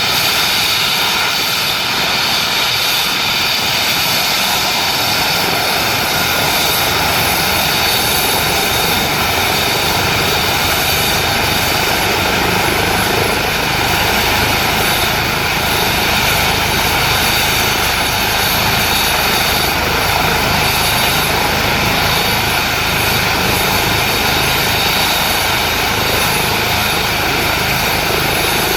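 Airbus EC135 helicopter's turbines and rotor running, a loud steady noise with a high turbine whine. The deep rotor rumble fills in over the first ten seconds or so.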